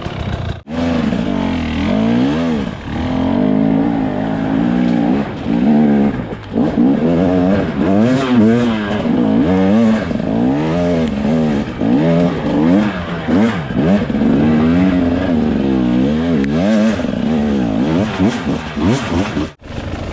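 Dirt bike engine revving up and down over and over as the throttle is worked in short bursts, typical of a bike clawing its way up a steep, slippery hill climb.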